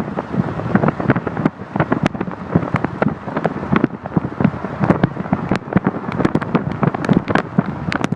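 Strong wind buffeting the microphone in a storm, with a rapid, irregular clatter of sharp knocks and cracks throughout.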